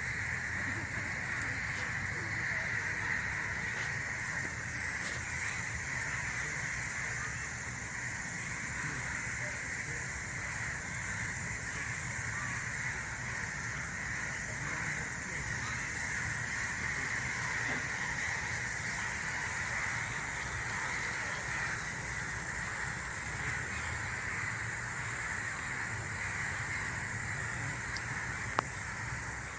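Forest ambience: a steady, unbroken high-pitched chorus with a low rumble beneath it.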